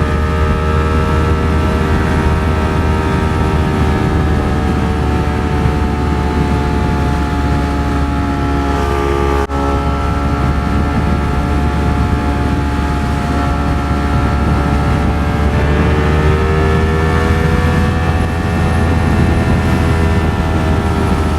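Ducati Streetfighter V4 S's V4 engine running at a steady highway cruise, its pitch drifting gently and rising a little about three-quarters of the way through, over heavy wind rumble on the onboard microphone. There is a brief dropout about halfway.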